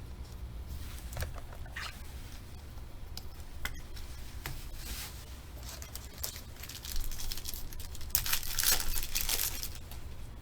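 A foil trading-card pack being torn open and its wrapper crinkled, with cards clicking and sliding as they are handled. The loudest tearing and crinkling comes about seven seconds in, over a steady low hum.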